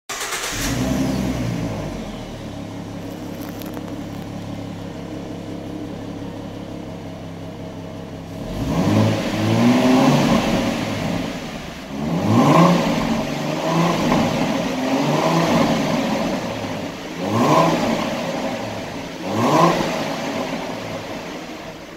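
2014 Ford Mustang 3.7-litre V6 with its mufflers deleted and a stainless steel catback exhaust. It idles steadily, then is revved in a series of about six short throttle blips, each rising and falling back to idle.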